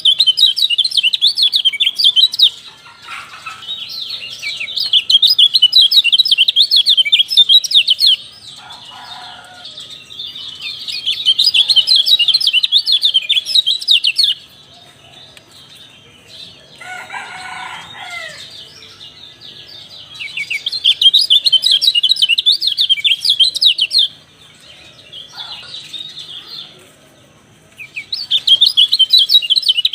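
Kecial songbird singing in rapid, high, chattering bouts of a few seconds each, about five in all with short pauses between, played as a lure call to set other kecial singing. A few short, lower calls fall in the pauses, the longest about halfway through.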